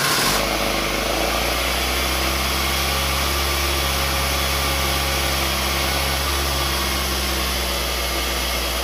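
Ford 1.8 Zetec four-cylinder engine breathing through a bank of four motorcycle carburettors, running steadily on choke just after a cold start.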